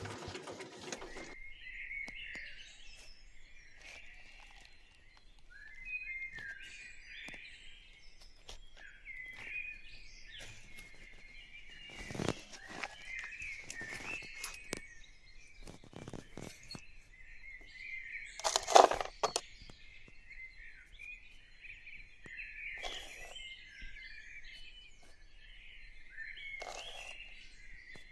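Birds chirping and calling continuously, with a few scattered sharp knocks; the loudest knock comes about two-thirds of the way through.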